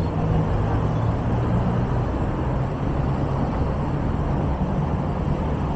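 City street traffic noise: a steady low engine hum over the wash of road noise.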